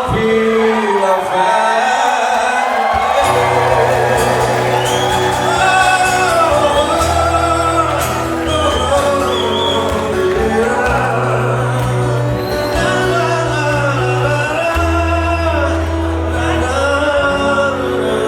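Live music with a singer, amplified in a large hall, with a steady bass line coming in about three seconds in; an audience shouts now and then.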